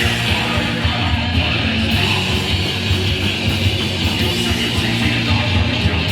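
A hardcore punk band playing live, loud and without a break: distorted electric guitar over bass and drums.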